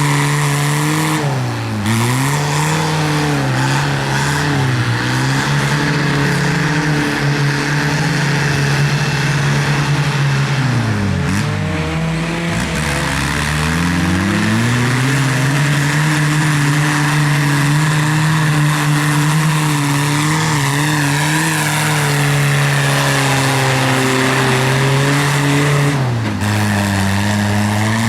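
Tractor engine running hard at high revs. Its pitch sags and recovers a few times, deepest about halfway through, then settles to a lower speed near the end.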